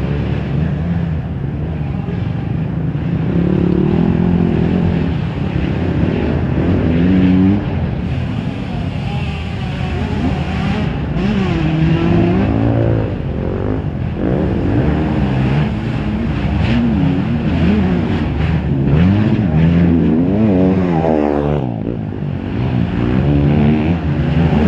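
Motocross motorcycle engines racing, several at once, their pitch rising and falling repeatedly as they rev and shift.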